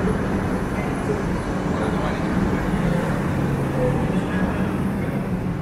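Double-deck electric regional train rolling slowly along the platform. It gives a steady electric hum with two low tones held throughout and a rumbling noise underneath.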